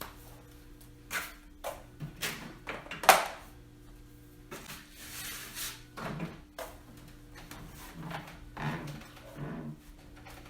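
Broom bristles brushing over a treadmill, with scattered knocks and bumps against its frame and one sharper knock about three seconds in.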